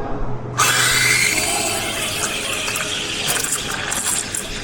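Café coffee-making equipment: a low hum, then a loud steady rushing noise that starts suddenly about half a second in.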